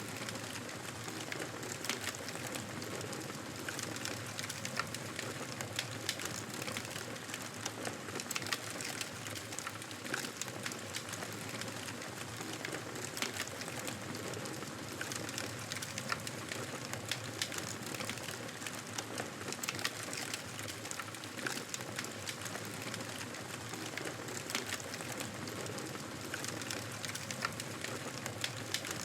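Wood fire crackling in a fireplace: a steady hiss with many small, irregular pops and snaps.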